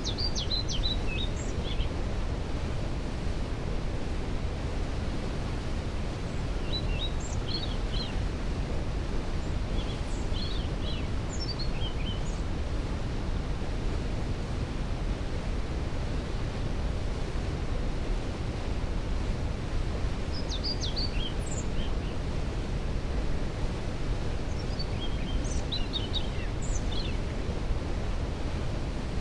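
A waterfall's steady, low rushing noise, with a songbird singing short, high chirping phrases over it about five times.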